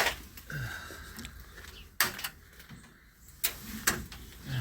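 Sharp snips from cutters cutting through plastic zip ties, a few clicks a second or two apart.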